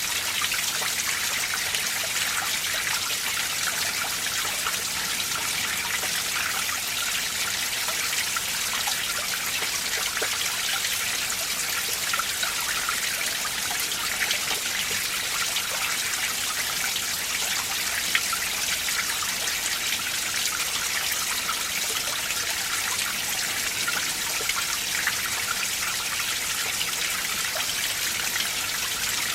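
Mountain stream running over rocks: a steady, bright rush of water with small splashes scattered through it.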